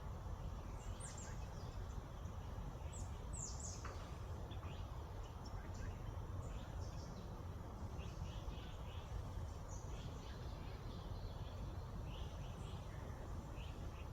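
Several small birds chirping and calling in quick, mostly falling notes over a steady low background rumble.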